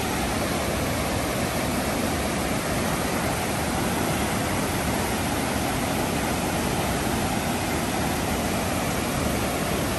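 Steady, even rush of the Mossman River's water flowing through the gorge.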